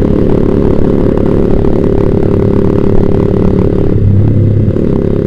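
Yamaha Vixion single-cylinder four-stroke engine running under way through a Proliner TR1 short aftermarket exhaust, a steady engine note that changes about four seconds in.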